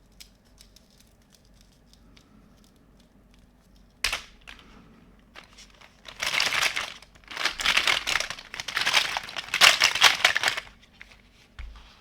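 Packaging being crumpled and crinkled by hand: light clicks at first, a sudden rustle about four seconds in, then three long bouts of loud crinkling over the following few seconds.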